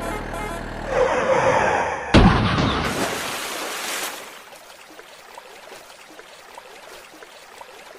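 A rushing noise swells for about a second, then a sudden loud crash-and-bang about two seconds in, which dies away over the next two seconds to a faint hiss.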